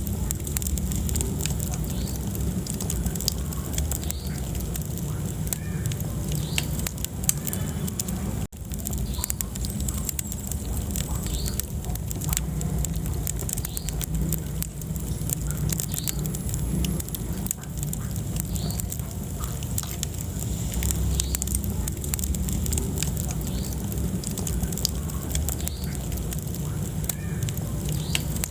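Wood fire burning in a fireplace: a steady low rumble of flame with frequent sharp crackles and pops. The sound cuts out for an instant about eight seconds in.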